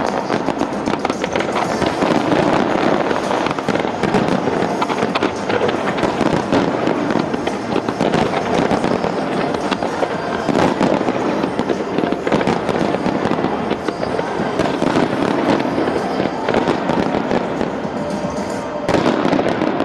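Large fireworks display: a dense, continuous barrage of bangs and crackling, with music playing underneath and a last louder flurry near the end.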